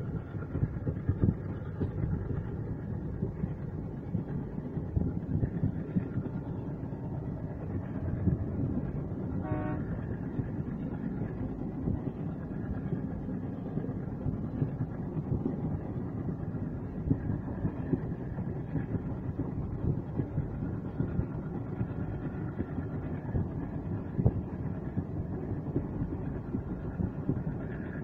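Running noise of a moving passenger train, heard from inside the carriage: a steady rumble with wheels clattering over the track. A brief pitched toot, like a horn, sounds about ten seconds in.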